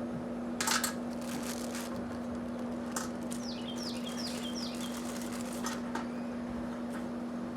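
A few sharp clicks and knocks in the first second and a half, with a bird singing a quick run of four descending notes about three seconds in, all over a steady low hum.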